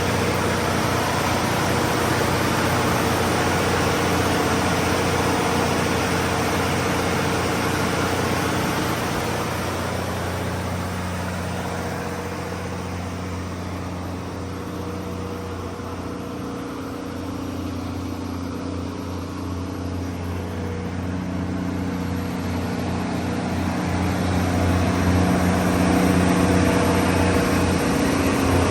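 Cummins QST30-G2 V12 diesel engine of a 750 kW generator set running steadily at constant speed, with a strong low hum. The sound falls away somewhat in the middle and grows louder again toward the end.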